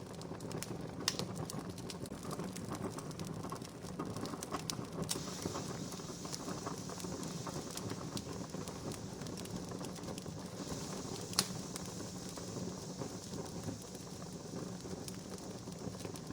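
Wood campfire crackling steadily with scattered small pops, two sharper pops about a second in and about eleven seconds in, and a soft hiss through the middle.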